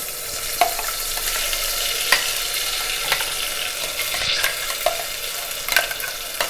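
Curry paste sizzling as it fries in hot oil in a pressure cooker, with a spoon stirring and knocking against the pot now and then.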